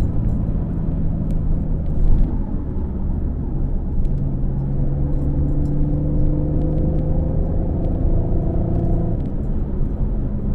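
Porsche 958 Cayenne V6 with the factory sport exhaust in sport mode, running while driving: a steady exhaust note that climbs slowly in pitch for several seconds, then drops sharply about nine seconds in.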